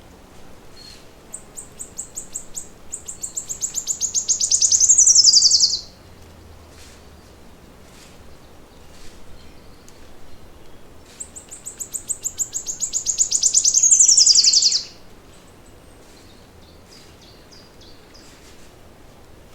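A songbird singing two songs about nine seconds apart. Each is a run of quick, high repeated notes that speeds up and grows louder, ending in a rapid trill that drops in pitch.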